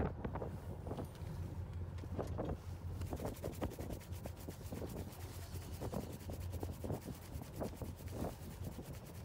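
Fishing boat's engine running with a steady low hum, wind on the microphone, and many irregular short knocks and rubbing sounds on top.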